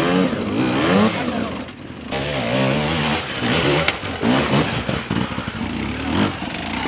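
Enduro dirt bike engine revving hard, its pitch rising and falling over and over, with a short drop in level just before two seconds in.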